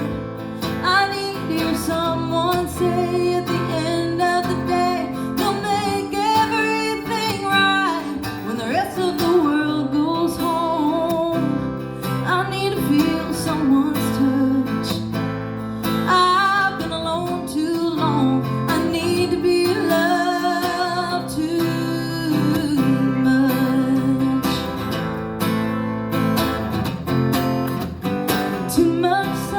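A woman singing with a wavering vibrato over acoustic guitar strumming, a live song performance that runs on without a break.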